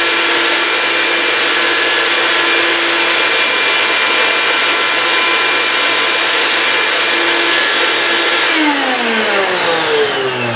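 Vacuum running steadily on a vacuum-forming table, then switched off about 8.5 s in, its motor whine falling in pitch as it winds down. It is drawing little pull because the plastic frame is not sealing on the table.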